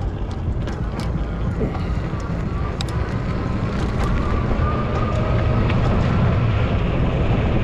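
Wind rumbling on the microphone and tyre noise from a moving Ecotric 20-inch fat-tire e-bike, getting louder as the ride goes on. A faint whine climbs slowly in pitch from about three seconds in.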